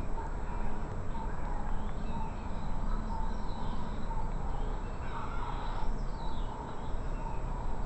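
Bird calls, short and repeated, with a few higher chirps and one louder call about five to six seconds in, over a steady low rumble.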